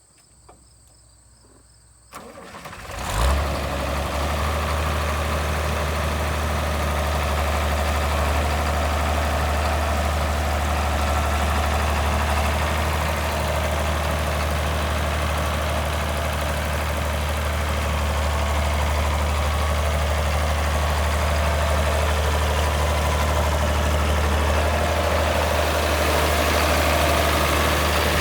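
1978 International 656 utility tractor's diesel engine being started about two seconds in, catching with a brief surge, then idling steadily.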